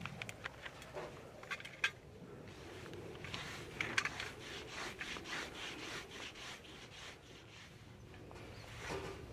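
A knife scraping in a run of short, repeated strokes, with a few sharp clicks.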